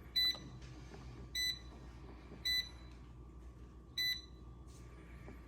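Four short electronic beeps from an air fryer's control panel, each a clear single-pitched tone, spaced about a second apart.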